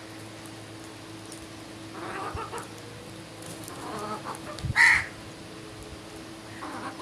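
Bird calls: several short harsh calls, the loudest and sharpest just before five seconds in, over a steady low hum.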